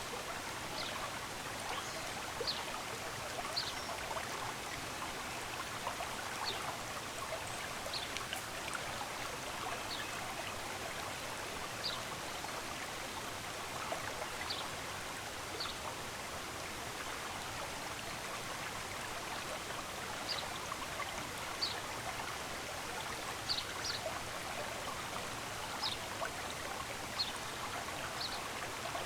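Steady rush of a flowing stream, with short, high bird chirps scattered every second or two over it.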